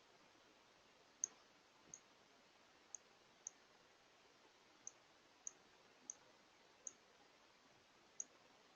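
Nine short, high chip notes from a northern cardinal, irregularly spaced over about eight seconds, faint above a steady background hiss.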